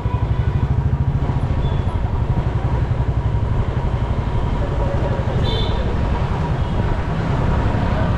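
Motorcycle engine running steadily on the move, with a pulsing low exhaust note and road noise. A brief high-pitched squeak about five and a half seconds in.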